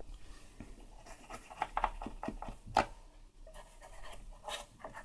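A run of light, irregular scratches and clicks from small objects being handled, with a sharper click about three seconds in.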